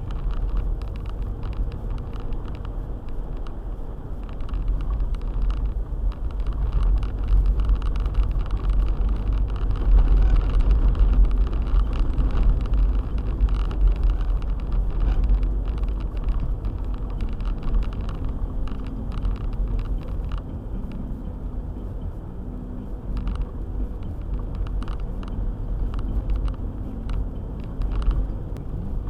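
Car driving on a snow-covered road: a steady low rumble of engine and tyres with frequent small knocks and clicks, swelling louder for a few seconds partway through.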